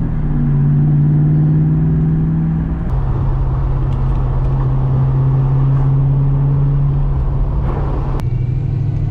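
Car engine running steadily at low revs with a deep, even note. The note shifts abruptly about three seconds in and again near the end.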